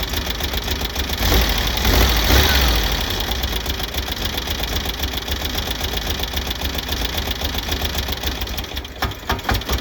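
1970 VW Beetle's air-cooled flat-four engine running steadily, swelling briefly louder around two seconds in. It now runs on all four cylinders: a new spark plug has cured the cylinder 2 misfire.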